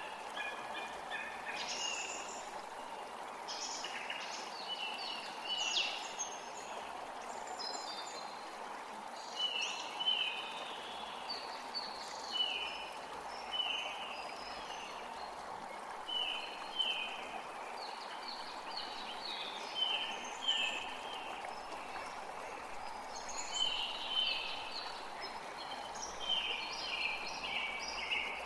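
Forest creek running steadily, with birds singing and calling over it in short chirps and quick downward-slurred notes, repeated every second or so.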